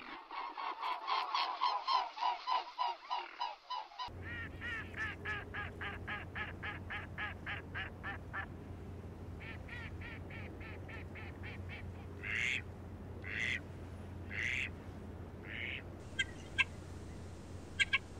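Birds calling in fast runs of repeated harsh notes, about five a second, then a few longer calls about a second apart and some sharp chirps near the end, over a steady low hum.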